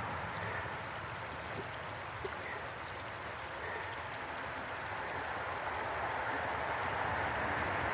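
A little stream running, a steady rush of water that grows slightly louder toward the end.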